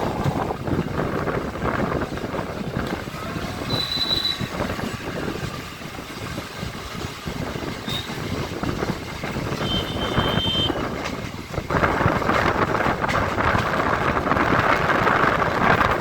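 EMU local train running, heard from on board: a steady rumble and rattle of the coaches on the track, with a few short high-pitched squeals. About twelve seconds in the noise steps up and turns hissier, like wind rushing in.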